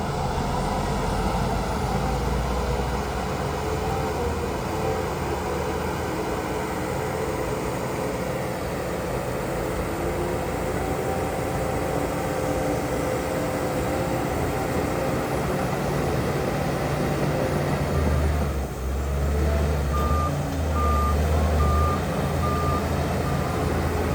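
Heavy diesel earthmoving machinery running steadily, its engine note swelling in the last few seconds. A reversing alarm starts beeping at an even pace near the end.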